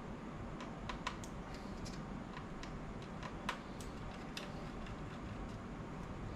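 Scattered light clicks and taps of small parts and tools handled on a laptop's plastic case during disassembly, the two sharpest about a second in and about halfway through, over a steady low hum.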